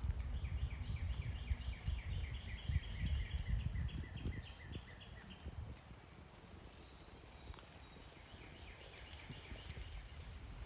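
A songbird singing a fast run of repeated short chirping notes, about four a second, for about five seconds, then again more faintly near the end, with a few thin high whistles between. A low rumble sits underneath, strongest in the first half.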